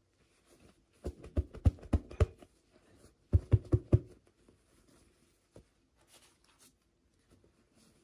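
Light taps and clicks from hands handling miniature toys and their plastic packaging. There are about five quick knocks about a second in, then four more after a short pause, and a few faint ticks after that.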